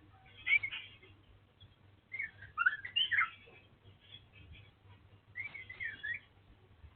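Oriental magpie-robin of the black kacer wulung form singing: three short bursts of quick, gliding whistled notes, the longest in the middle, with quiet gaps between.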